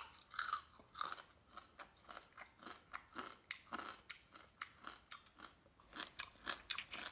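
Small whole crabs being bitten and chewed, their shells cracking in a run of quick crunches, about three a second.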